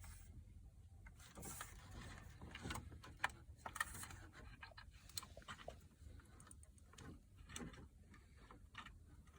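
Faint scattered clicks and rustling of plastic wiring-harness connectors being handled and tried for fit.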